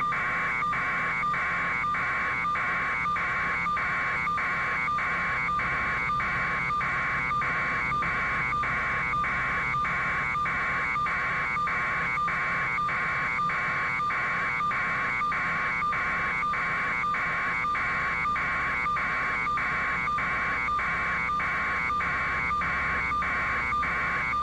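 An electronic warning buzzer beeping steadily, about two beeps a second, over a faint low hum.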